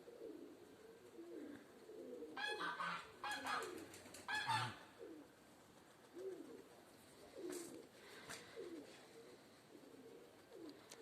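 Domestic pigeons cooing softly and repeatedly. From about two to nearly five seconds in, a burst of louder, higher-pitched calls stands out over the cooing.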